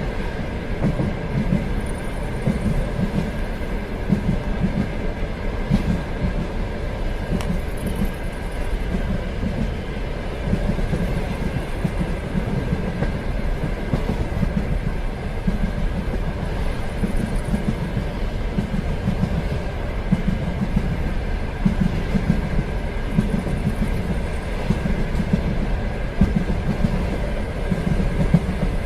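Steady rumble of a train running along the track, with rhythmic clatter from the wheels and a faint steady whine.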